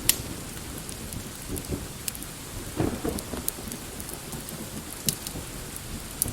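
Steady rain with low rumbles of thunder, and a few sharp crackles from a fireplace now and then.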